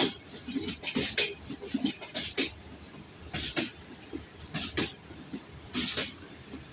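Passenger train running, its wheels clacking over the rail joints, often in quick pairs about once a second, over a low rolling rumble, heard from an open coach doorway.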